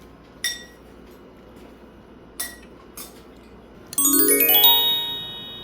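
A few light clinks, like a utensil against a dish, then about four seconds in a fast rising run of bell-like chime notes, glockenspiel-style, that rings on and slowly fades.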